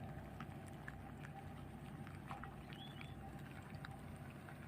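Faint, steady low drone of a boat engine on the river, with light water noise and scattered small ticks. Two brief high chirps come about three seconds in.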